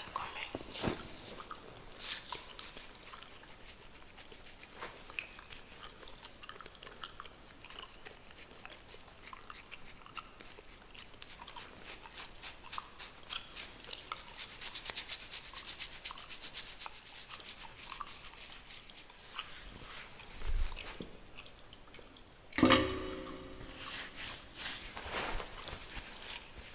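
Fingernails scratching through a beard close to the microphone, quick repeated bristly strokes that speed up and grow louder midway. A louder rubbing bump comes near the end.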